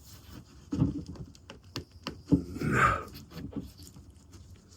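Short rustles, tugs and clicks of jute cord and burlap being handled and pulled into a knot, with a longer breathy sound a little past halfway.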